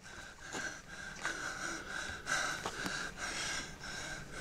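A man breathing hard in quick, noisy, wheezy breaths, about two a second, over a faint steady high tone.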